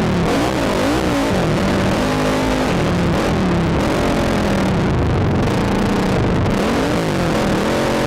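ATV engine revving up and down over and over, its pitch rising and falling roughly every second as the throttle is worked, heard from the rider's helmet camera.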